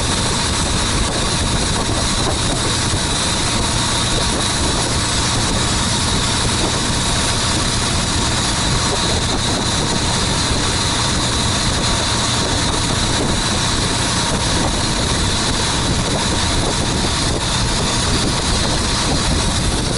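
Boat engine running steadily, a constant low rumble with a steady high whine above it.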